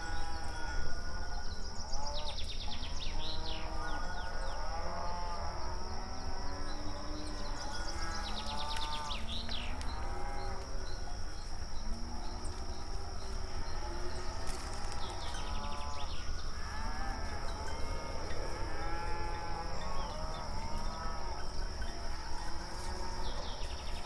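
A herd of cattle mooing, many calls overlapping without a break.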